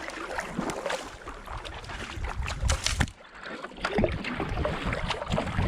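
Racing kayak paddle blades catching and pulling through canal water, splashing roughly once a second at a hard interval pace of 70–80 strokes a minute. A low rumble, like wind on the microphone, builds from about a second and a half in.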